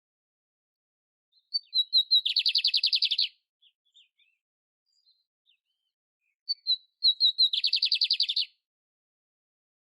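Canary singing: twice, a few short high chirps lead into a fast, rattling trill about a second long, with pauses between the phrases.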